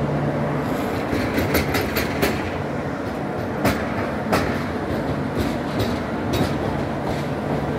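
Double-decker passenger coaches rolling past as the train pulls away, a steady rumble with the wheels clicking irregularly over rail joints.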